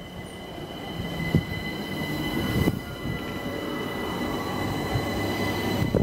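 London Overground Class 378 electric train running into the platform and past at close range: a rumble of wheels on rail with a few knocks, growing louder, under a steady high-pitched whine.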